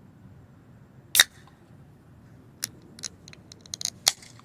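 A beer being opened: one sharp pop with a short hiss about a second in, then several smaller clicks and a brief fizz near the end.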